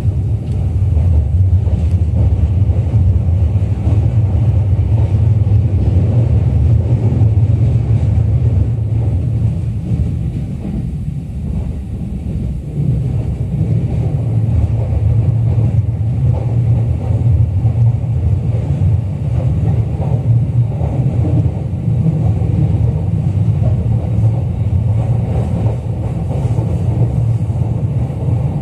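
JR East E231 series electric train running on the rails, heard inside the lower deck of its double-decker Green car: a steady low rumble of wheels and track that eases slightly about ten seconds in and then picks up again.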